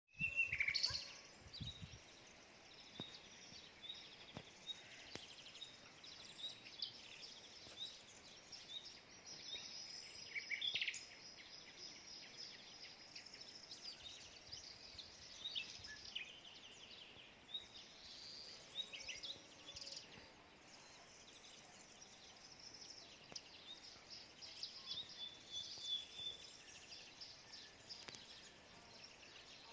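Several wild birds chirping and singing in short, high calls scattered throughout, over a faint steady hiss, with a brief louder noise in the first second.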